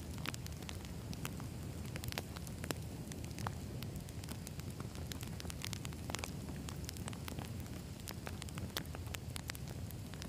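Wood campfire burning: logs crackling with frequent, irregular sharp pops over a steady low rumble of the flames.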